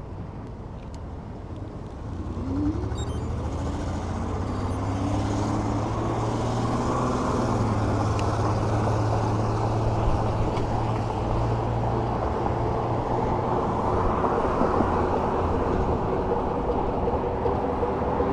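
Electric bike under way: a whine rising in pitch as it picks up speed about two seconds in, then steady road and wind noise with a low hum and a steady whine.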